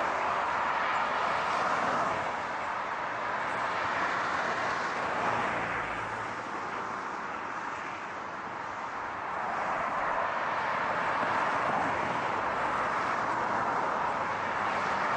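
Steady rushing noise of car and road, easing a little about eight seconds in and building again.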